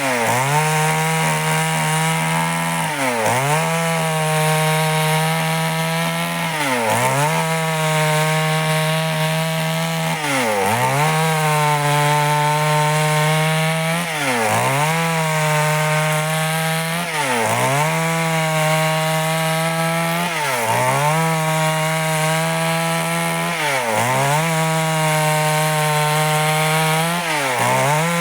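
Stihl chainsaw cutting through wood under load, sawing out boards. The engine runs high and steady, and its pitch sags sharply and recovers about every three and a half seconds, roughly eight times.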